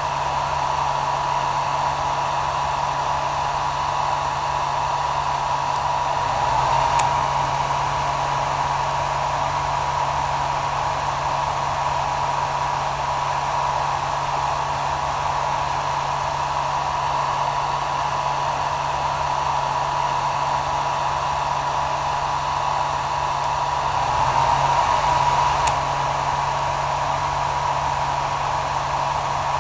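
Hair dryer running steadily: an even rush of air with a constant high-pitched tone and a low hum underneath, swelling slightly twice.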